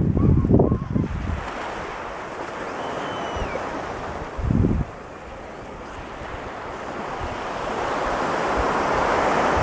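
Ocean surf breaking and washing up a sandy beach, the rush swelling louder near the end. Wind buffets the microphone in low gusts at the start and again about four and a half seconds in.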